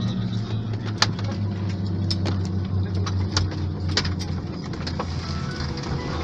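Steady low mechanical hum with sharp clicks and knocks scattered through it, roughly one a second.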